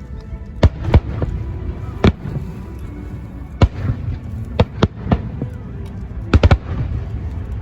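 Fireworks bursting: about ten sharp bangs at irregular intervals, ending in a quick cluster of three, over music playing in the background.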